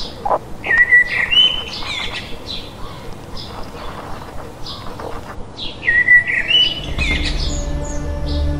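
Birds chirping and whistling in short phrases, with one phrase heard twice. Near the end a low, steady music drone comes in underneath.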